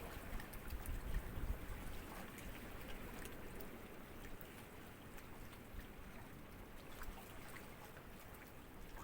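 Gentle sea ripples lapping and trickling at the water's edge, a soft steady wash with scattered small splashy clicks, a little fuller near the start and calmer after.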